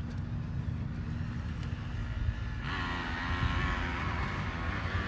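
Dirt bike engines running with a steady low rumble. About two and a half seconds in, a second, higher engine note joins and holds steady.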